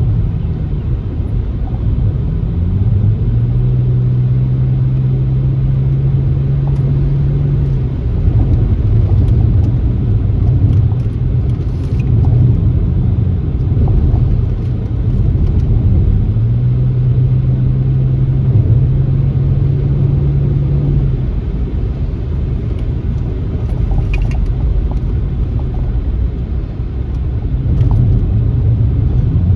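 Car engine and tyres rumbling along a rough country backroad. The engine note rises a little about three seconds in and holds steady for several seconds, and does so again about halfway through, with a few small ticks from the road.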